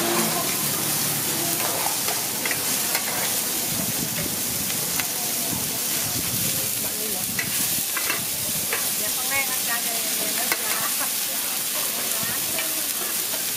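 Seafood, egg and bean sprouts sizzling in oil on a large flat iron pan, a steady frying hiss. A metal spatula scrapes and clicks against the pan now and then.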